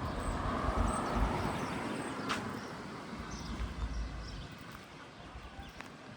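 A car driving past on the street, its engine and tyre noise fading away about four seconds in. A single sharp click about two seconds in.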